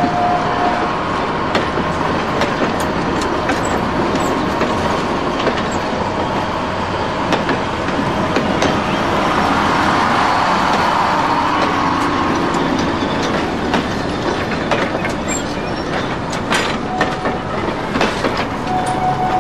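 A train rolling along the track: a steady rumbling run with scattered rail clicks, building a little about halfway through.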